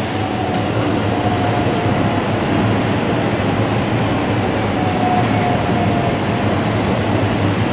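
Electric train running along the tracks: a steady rail noise with a low hum, and a faint high whine that comes in twice.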